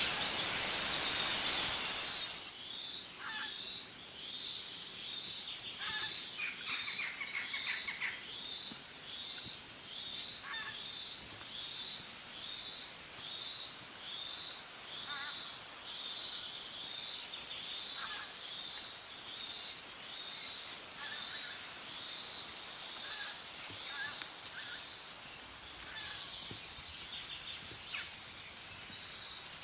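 Outdoor nature ambience: birds calling here and there over a steady, rhythmic high chirping that repeats about one and a half times a second. A loud rushing noise fills the first couple of seconds, then stops.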